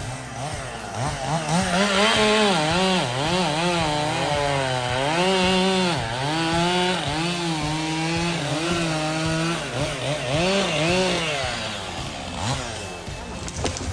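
An engine revving up and down over and over, its pitch rising and falling, with some steadier stretches.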